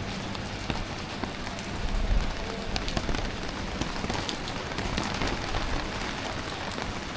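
Steady rain falling, with many scattered ticks of individual drops.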